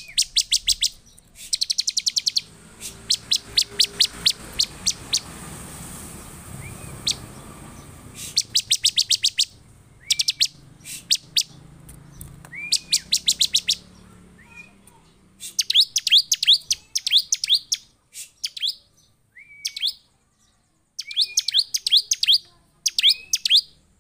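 Bar-winged prinia (ciblek) calling excitedly: phrases of very rapid, sharp high notes, each phrase a second or two long, with short upswept notes between them and brief pauses.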